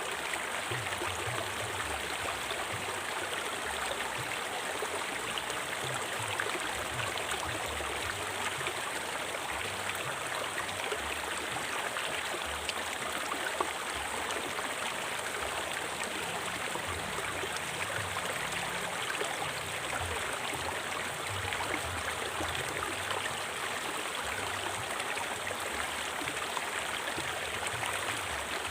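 River water flowing and rushing over rocks, a steady splashing and gurgling without pause.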